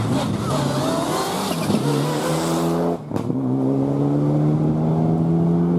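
Four-wheel-drive rally car accelerating hard, its engine note climbing with a hiss of tyre noise. About three seconds in there is a quick break for a gear change, then the engine pulls again, rising steadily in the next gear.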